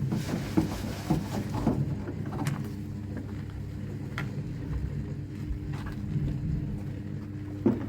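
A motor running with a steady low hum, with scattered knocks and clicks over it, several in the first two seconds and a sharp one near the end.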